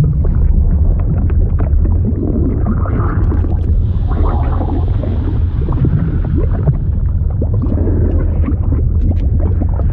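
Liquid sound effect: a steady deep rumble with gurgling and bubbling over it and many small scattered pops.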